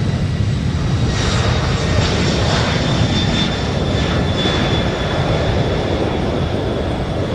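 Jet aircraft turbofan engines running: a steady low rumble with a thin high whine, swelling with a louder rush of noise for a few seconds about a second in.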